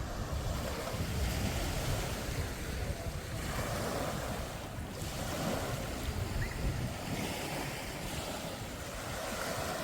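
Surf washing on the beach, waves rising and falling every few seconds, with wind buffeting the microphone in a low rumble.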